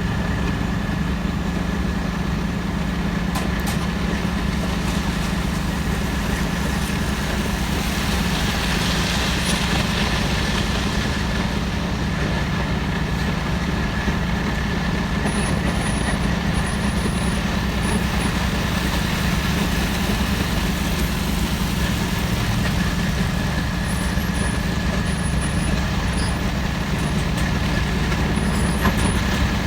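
Heavy truck engine running steadily at idle, a constant low drone that neither revs nor stops.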